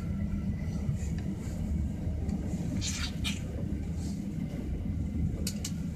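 Running noise heard inside a passenger train carriage at speed: a steady low rumble of wheels on rail. Two short high-pitched sounds come about three seconds in and two sharp clicks near the end.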